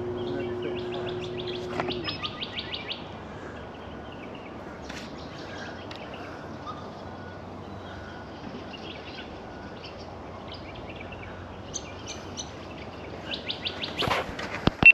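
Birds calling from the riverside bush, with rapid trills of repeated high notes early on and again near the end, and scattered chirps. A steady low hum stops about two seconds in, and a couple of sharp clicks come near the end.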